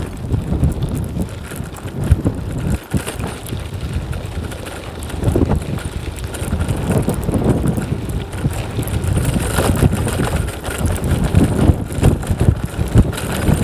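Strong wind buffeting the microphone of a moving bicycle, a low rumble that rises and falls in gusts.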